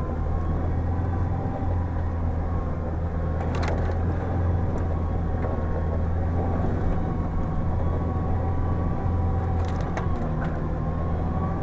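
Off-road vehicle's engine running steadily while driving, with a couple of short knocks or rattles, one about a third of the way in and a cluster near the end.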